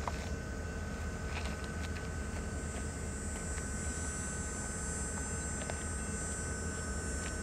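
Distant Metra F40PH-2 diesel-electric locomotive approaching with its commuter train: a steady low rumble, with a few faint clicks.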